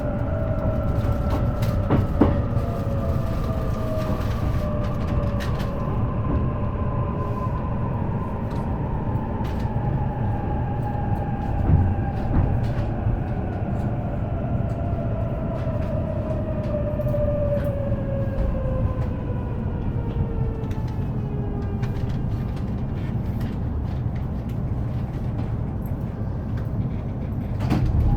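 JR East E233-series electric train heard from on board while slowing: the whine of its traction motors falls steadily in pitch and fades out about three quarters of the way through, over a steady wheel rumble and scattered clicks of rail joints.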